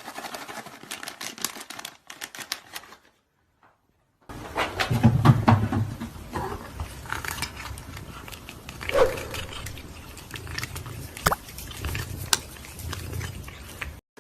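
A pet animal's sounds mixed with rustling and sharp knocks in a small room. They stop about three seconds in and start again, louder, after about a second.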